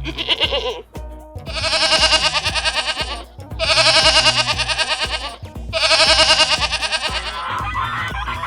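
An animal makes three long, quavering calls one after another, with a shorter call just before them. Background music plays under the calls.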